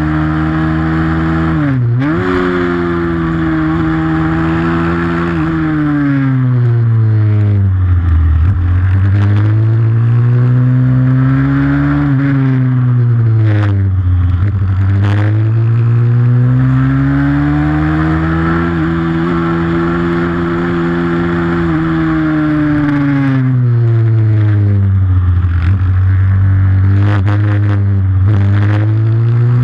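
A pit bike's single-cylinder four-stroke engine revving hard during a race, its pitch climbing through each gear and falling again off the throttle several times, with sharp drops like gear changes and a few short clicks.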